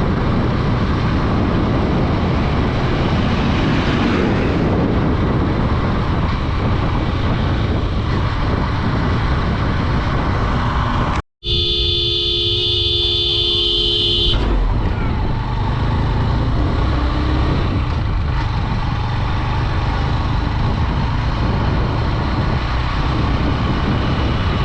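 Steady wind and road rush from a Honda Dream 110 motorcycle being ridden. About 11 s in the sound briefly drops out, then a vehicle horn sounds steadily for about three seconds.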